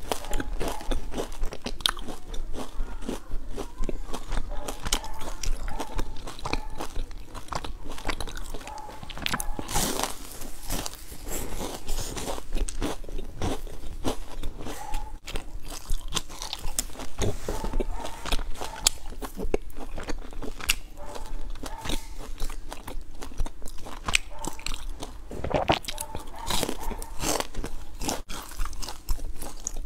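Close-up biting and chewing of crisp, crumb-coated pastry cakes: dense crunching and crackling with wet mouth sounds, with bigger crunches about a third of the way in and again near the end.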